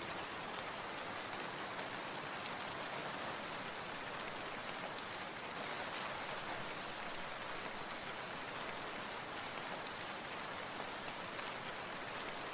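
Rain falling steadily, an even hiss of many small drops.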